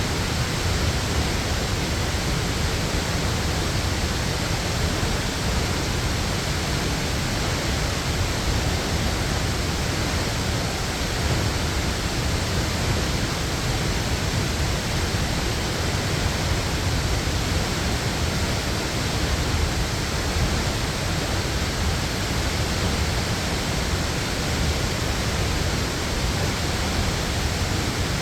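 Waterfall: the steady, unbroken rush of falling water, heaviest in the low end.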